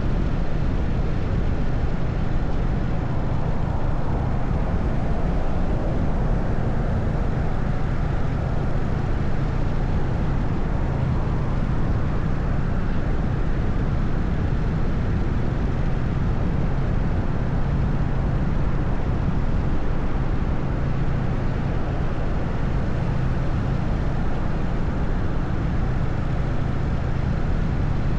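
Harley-Davidson FXSTS Springer Softail's 1340 cc Evolution V-twin running steadily at highway cruising speed, its low engine note holding even throughout.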